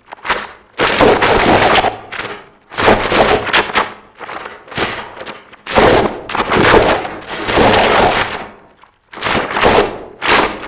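Harsh noise music: loud blasts of dense, distorted noise, each about a second long, cutting out and starting again about every second and a half.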